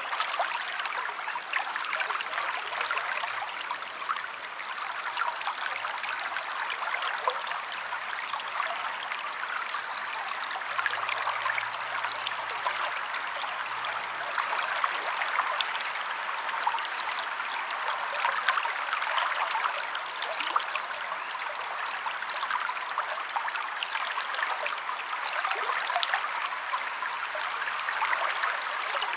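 River water flowing and splashing steadily. Faint high bird chirps come in a few times in the second half.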